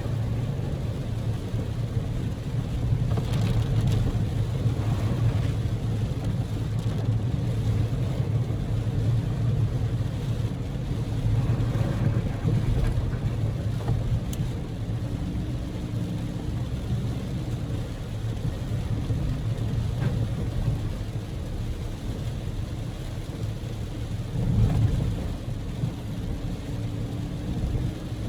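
Daihatsu Move L150S driving, heard from inside the cabin: a steady low engine and road rumble, with a faint steady tone that comes in about halfway and again near the end.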